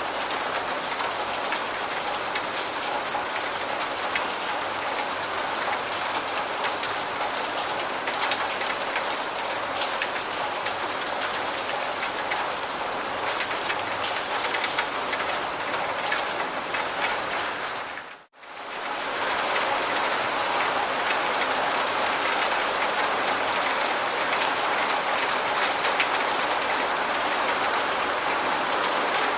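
Steady rain falling on a surface, with many individual drops ticking through the downpour. About two-thirds of the way through, it fades out to near silence for a moment, then comes straight back.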